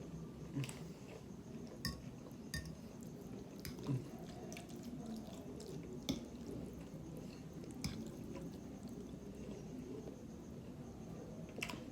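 Close eating sounds of instant noodles and pork ribs: chewing, with about eight sharp wet clicks and smacks scattered irregularly.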